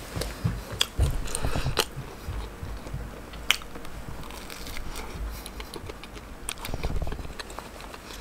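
Close-up biting and chewing of a bagel piece with a spread, with a few sharp crunches among the wet chewing sounds.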